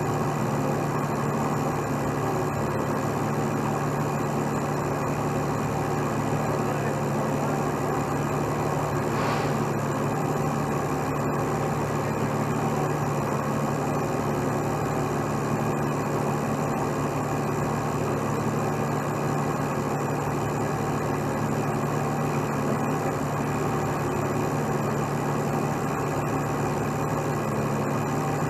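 Heavy diesel truck engine idling steadily, with an even low hum.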